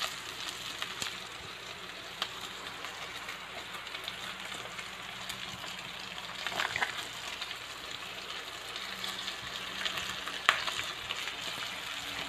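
Ground meat and sliced mushrooms sizzling steadily in a frying pan, with a few sharp clicks of a spatula against the pan as carbonara sauce is stirred in.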